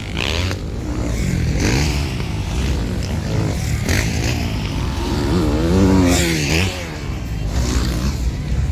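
Motocross bike engines revving and dropping as the bikes race around the track. The pitch rises and falls repeatedly, with the loudest swell about six seconds in.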